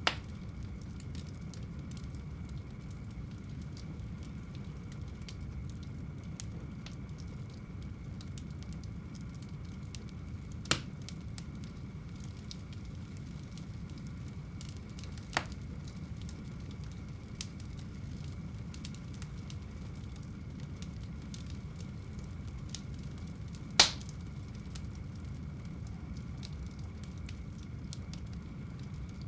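Fire burning in a home fireplace: a steady low rumble with light crackling and a few sharp pops, the loudest one late on.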